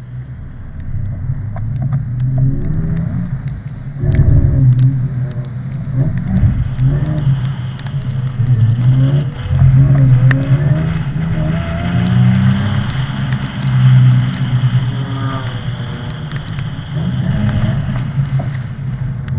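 Car engine revving hard and falling back over and over, pitch rising and dropping every second or two, as in drifting.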